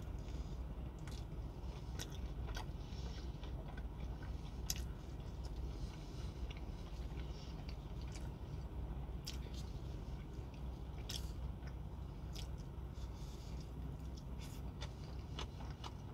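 Close-up mouth sounds of a person chewing mouthfuls of soft marinated eggplant and carrot salad, with scattered wet smacks and clicks, over a steady low hum.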